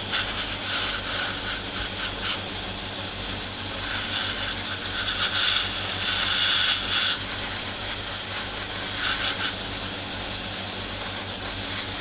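Paint spraying from an airbrush: a steady hiss of air and paint, swelling a little around the middle. The lacquer paint is going on thin and fast, which has been giving a cobwebbed 'spider web' finish.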